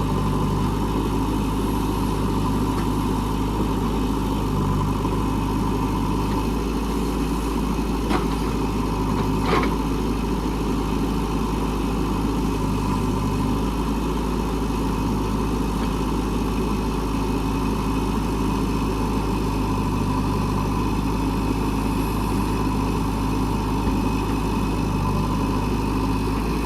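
A diesel engine of working machinery running steadily at an even speed, with two brief knocks about eight and nine and a half seconds in.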